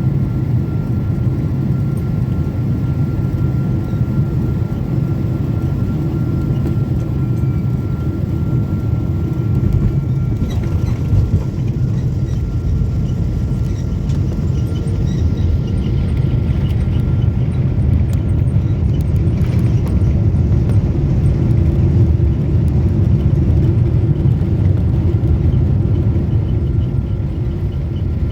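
Cabin noise inside a Boeing 777 on landing: a steady low rumble of engines and airflow, with a faint steady whine in the first half, growing louder in the second half.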